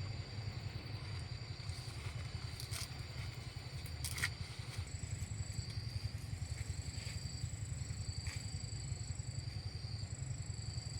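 A small engine running steadily, with a few sharp clicks over it.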